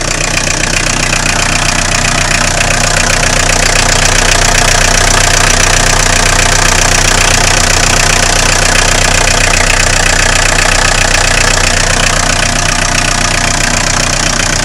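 1980 VW pickup's diesel engine idling steadily as it warms up after a cold start, growing a little louder over the first few seconds.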